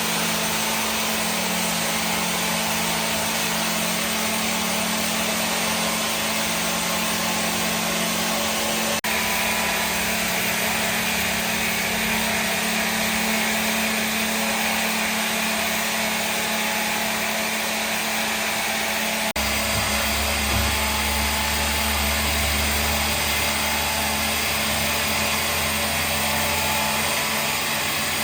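Electric power tool running steadily on wood, a continuous motor whine with a low hum. The hum changes abruptly about a third and two thirds of the way through.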